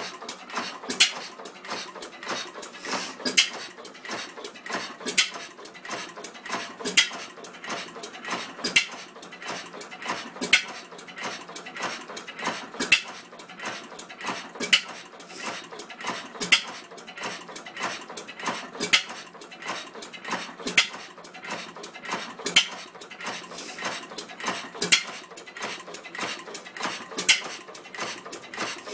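1910 Gardner 1F single-cylinder open-crank gas engine running: a steady rapid clatter of metal clicks, with a louder bang about every two seconds.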